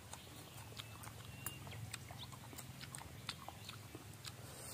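Faint chewing sounds of someone eating, with scattered soft clicks and smacks of the mouth over a low steady hum.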